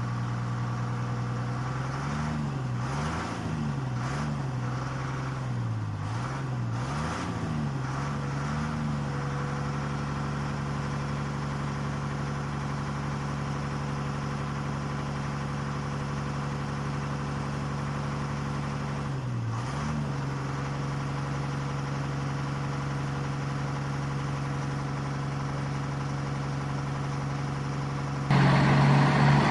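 Truck engine sound effect humming at a steady pitch, its pitch dipping and rising again several times in the first third and once near the middle, like revs dropping and picking up; it turns louder and busier just before the end.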